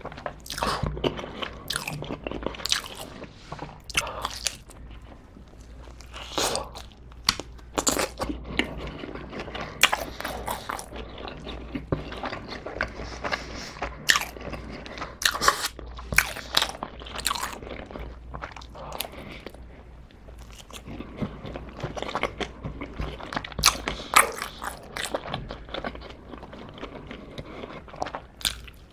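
A person chewing and crunching mouthfuls of pizza, with many sharp crunches and chews in a row.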